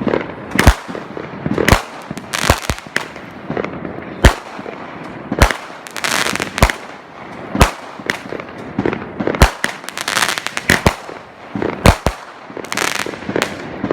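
Fireworks going off: an irregular run of about a dozen sharp bangs, with crackling in between.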